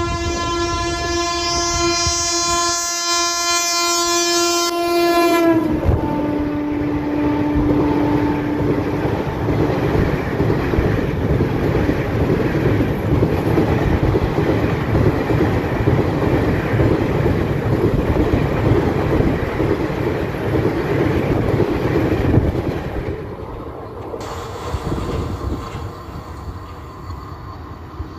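WAP7 electric locomotive sounding a long horn blast of about five seconds, its pitch dropping as it passes and the lower note holding a few more seconds, then the Duronto Express coaches rumbling and clattering past at speed, fading near the end.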